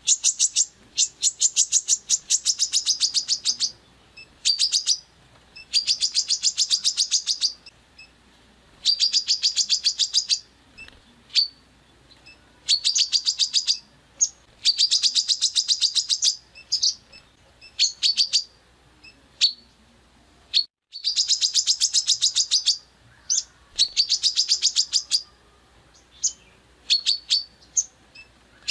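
Songbird giving harsh, rapid-fire trills, the 'tembakan kasar' of bird-training recordings: high-pitched bursts of one to two seconds each, repeated over and over, with short single notes in between.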